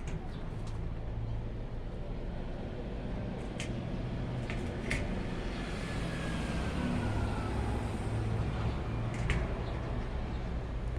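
Steady low rumble, like distant traffic or wind, with a few faint clicks.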